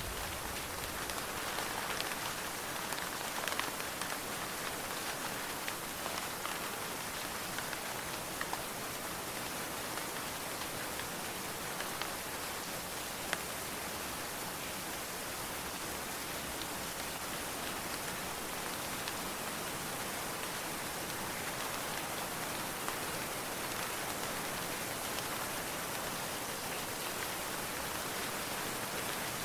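Steady rain falling, an even hiss with a few sharper drop ticks, one of them about halfway through. No thunder sounds.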